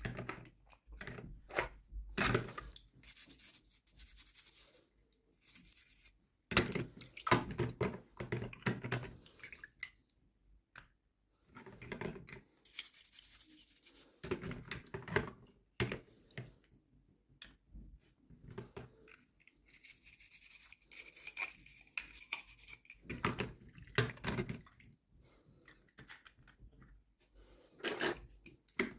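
Small plastic toys and packaging handled at close range: irregular clicks, taps and rubbing, with a brief high squeak about two-thirds of the way through.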